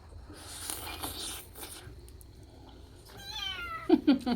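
A cat meowing about three seconds in: a falling call followed by a few shorter, louder ones. Before it there is a brief rustling noise.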